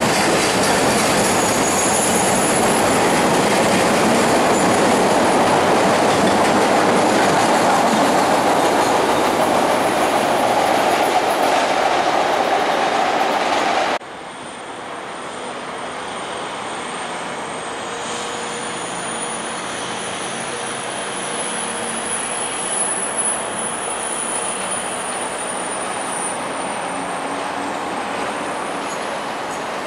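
CTA 'L' rapid-transit train running beside a station platform: a loud, steady rumble of wheels on rail. About halfway it cuts suddenly to a quieter scene: a CTA train approaching over curving interlocking trackwork, with a thin, high wheel squeal that rises and falls.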